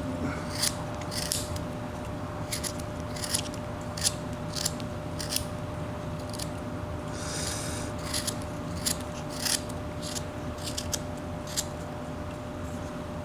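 Whittling knife slicing thin shavings off a small wooden carving, taking the wood down: short, sharp, irregular cuts about one or two a second, with one longer scraping cut a little past the middle.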